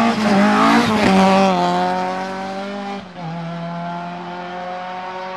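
VW Golf 2 rally car's four-cylinder engine running hard at high revs, the pitch easing down. About three seconds in the revs drop, and the engine then runs on steadily at a lower pitch until the sound cuts off abruptly at the end.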